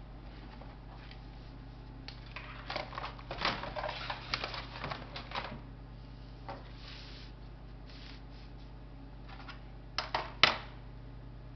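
Laptop parts being handled during disassembly: a run of small clicks and rattles, then two sharp clicks near the end, over a steady low hum.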